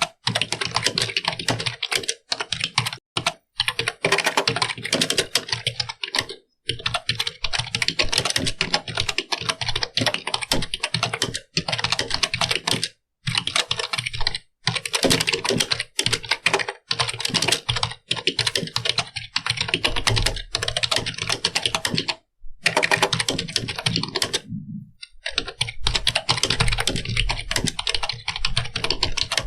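Computer keyboard being typed on steadily in fast runs of key clicks, with brief pauses every few seconds.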